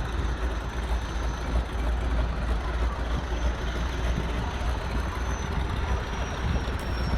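Small floatplane's propeller engine droning steadily as it heads out, under a steady wash of outdoor noise.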